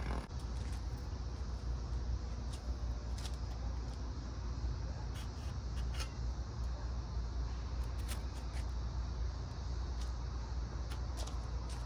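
Steady low rumble with scattered light clicks and taps, a dozen or so over the stretch.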